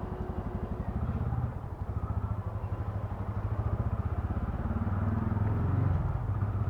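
TVS Ronin's single-cylinder engine running under way, heard through a mic inside the rider's helmet. The engine note drops briefly about one and a half seconds in, then builds steadily as the bike pulls.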